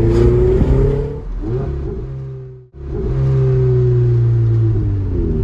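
Ferrari 488 GTB's twin-turbo V8 accelerating, its pitch climbing through the first second and then falling away. The sound cuts out briefly about halfway through, then the engine pulls steadily again with its pitch slowly easing down, and drops off near the end.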